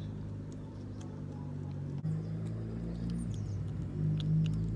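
A kitten licking paste from a pouch, making small wet clicks and smacks, over a low steady hum.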